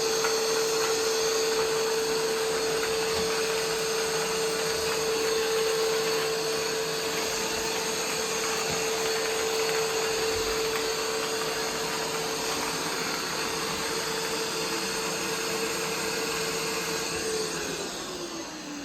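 Roomba 505 robot vacuum running steadily, a constant motor whine over the rush of its suction and brushes. Near the end the motor winds down, its pitch falling as the sound fades.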